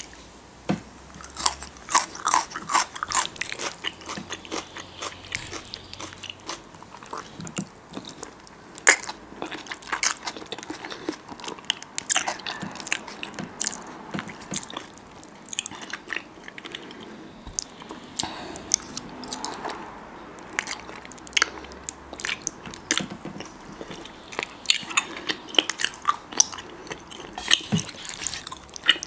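Close-miked eating sounds: a person biting and chewing a meal of noodles, fishcake, rice cake and jalapeño, with many sharp, irregular clicks.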